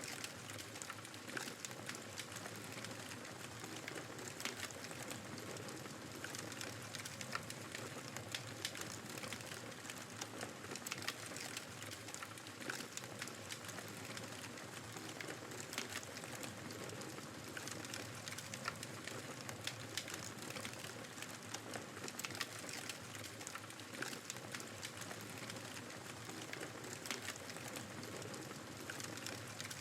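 Fireplace crackling: irregular sharp pops and snaps over a steady rush of snowstorm wind.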